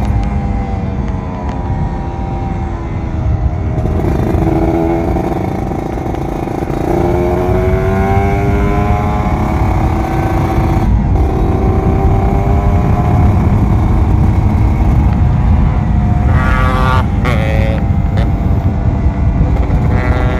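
Kawasaki Ninja RR 150's single-cylinder two-stroke engine running under way, its pitch falling and climbing again several times as the rider shifts gears and changes speed. There is a brief cut in the sound a little past the middle, and wind rushes over the microphone throughout.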